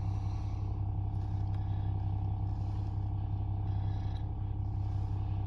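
Car engine idling steadily, heard from inside the cabin as a constant low hum with a few steady tones. Soft hissing comes and goes over it every second or so.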